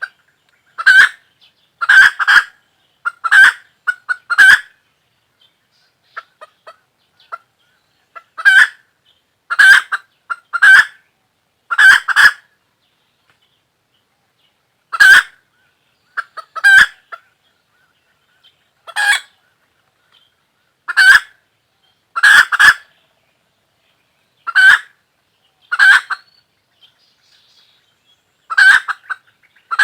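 A chicken calling over and over in short, loud calls, each under half a second, about sixteen in all, spaced irregularly with quiet gaps between them.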